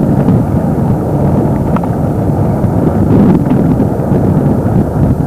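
Wind buffeting the camcorder microphone: a loud, steady, rough low rumble.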